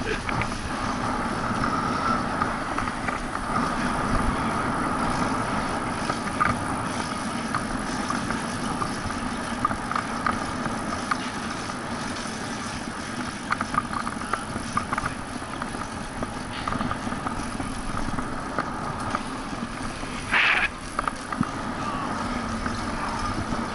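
Steady road and wind noise from a bicycle being ridden on city streets, with scattered small clicks and rattles. A brief higher-pitched sound cuts in about twenty seconds in.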